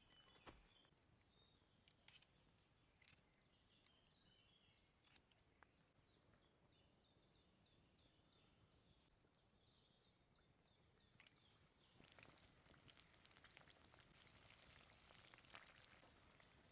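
Faint outdoor ambience with scattered crackles and short bird chirps. About twelve seconds in, a steady hissing sizzle starts, typical of food going into hot oil in a pan over a campfire.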